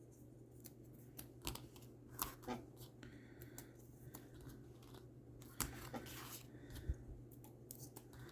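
Faint scattered clicks, taps and rustles of cardstock being handled and pressed down onto another piece of cardstock, over a low steady hum.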